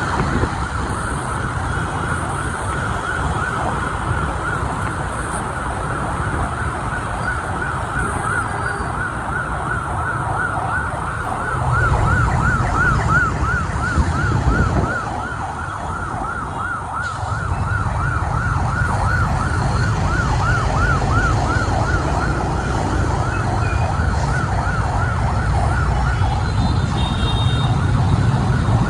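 An emergency-vehicle siren sounds steadily in a fast rising-and-falling yelp, over the low rumble of motorbike and street traffic. The rumble gets louder about twelve seconds in.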